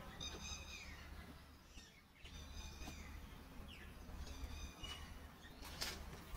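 A songbird repeating the same short high phrase three times, about two seconds apart, each ending in a quick falling slide, over a faint low rumble.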